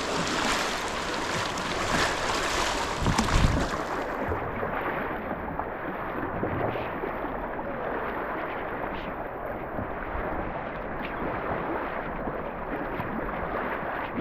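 Fast river current rushing around a kayak, with wind buffeting the microphone in the first few seconds and a few faint paddle splashes. The sound turns duller about four seconds in.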